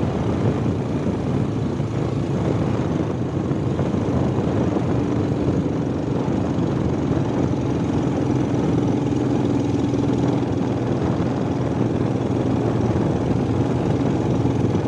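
Motorbike engine running at a steady speed while riding, mixed with wind and road noise; a faint steady engine tone holds from about a third of the way in until near the end.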